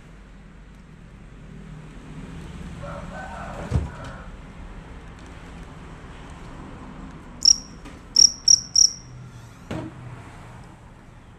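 A field cricket (jangkrik) chirping: one chirp, then a quick run of three, high-pitched and loud. A dull thump comes a few seconds before the chirps, and a click follows shortly after them.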